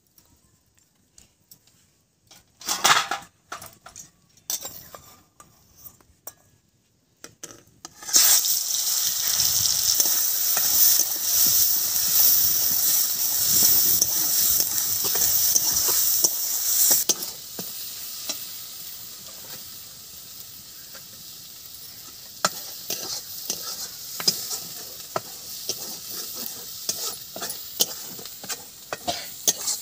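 Spice paste frying in hot oil in a steel kadai: after a few light utensil knocks, a loud sizzle starts suddenly about eight seconds in and drops to a quieter frying hiss about halfway through, while a steel spatula scrapes and clinks against the pan as the paste is stirred.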